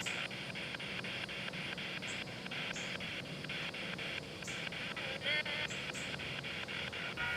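Spirit box sweeping through radio frequencies: static chopped into short bursts about five times a second, with brief snatches of broadcast sound breaking through about five seconds in and again near the end.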